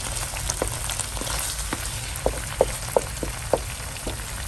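Eggs frying in chilli sambal paste in a non-stick pan over a low flame, sizzling steadily, with a run of short sharp clicks in the middle.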